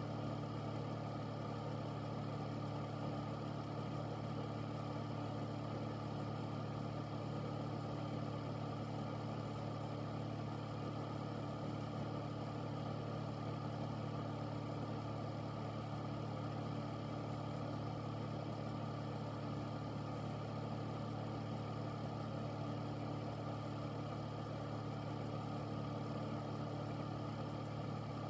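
Air filter fan running steadily: a constant low hum under an even rush of air, unchanging throughout.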